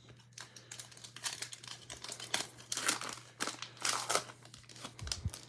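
A foil trading-card pack being torn open and its wrapper crinkled: a run of quick crackles and rips, busiest and loudest in the middle.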